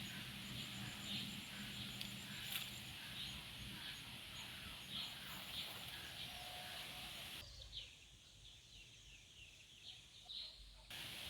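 Birds chirping over and over in short calls, over a faint, rapid, high trill and a low hum. About two-thirds through, the sound cuts abruptly to a quieter stretch of short, falling chirps, then cuts back just before the end.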